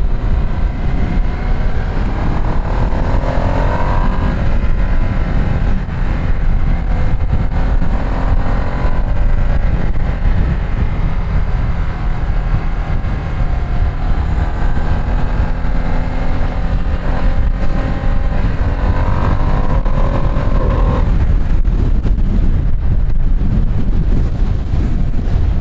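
Ducati Streetfighter V2 S's L-twin engine under way, climbing in pitch several times as it accelerates, over a heavy low rumble.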